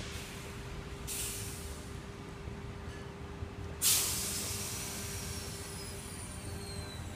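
Electric suburban train's air brakes letting off hiss in short bursts, the loudest a sudden sharp blast about four seconds in that fades away. Afterwards a faint high whine falls slowly in pitch over a steady low rumble.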